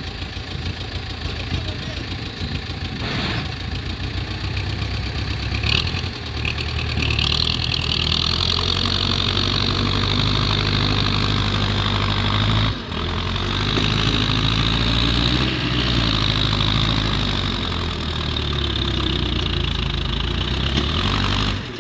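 Diesel engine of a 93-model Belarus tractor running. It grows louder about seven seconds in and then holds steady, with a brief drop about thirteen seconds in.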